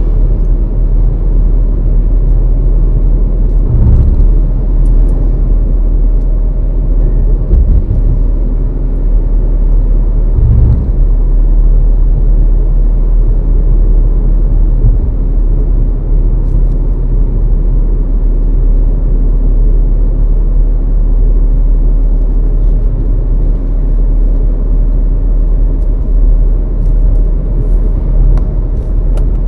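Car driving: a steady low rumble of engine and road noise, with three short low thumps about four, eight and eleven seconds in.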